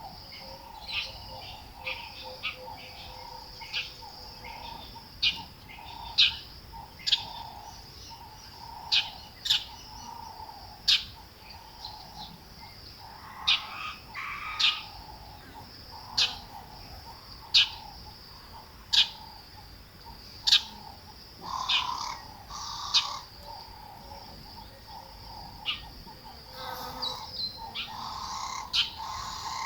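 Wild birds calling in short, sharp chirps, one every second or so, coming thicker near the end, over a steady high-pitched trill.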